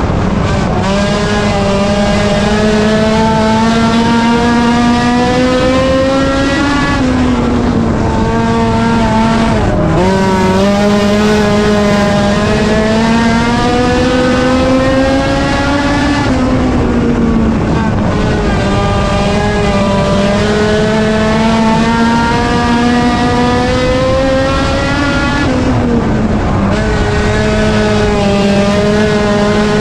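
Race car engine running hard and steady, its pitch climbing slowly for several seconds at a time, then dropping sharply as the throttle comes off. The drop happens four times, in a lap-like pattern.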